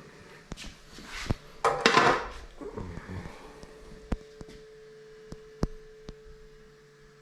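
Metal parts knocked and scraped together as an intercooler is worked into place by hand: a short scraping burst about two seconds in, then a string of sharp single knocks and clinks. A faint steady hum tone runs under the second half.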